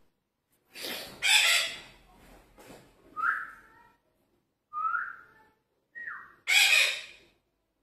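Red-breasted parakeet's harsh screeches, three loud ones, with short whistled notes between them that rise or fall in pitch.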